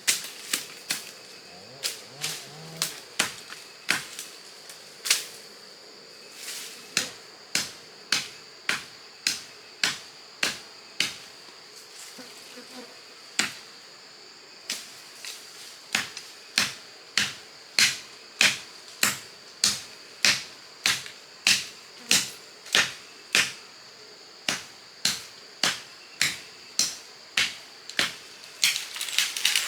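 Repeated blows of a hand tool striking wood, about one to two sharp strikes a second with a couple of short pauses. A steady high insect buzz runs underneath.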